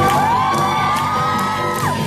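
Live pop-musical number: a singer holds one long high note that slides up at the start and drops off near the end, over band accompaniment, with audience whoops mixed in.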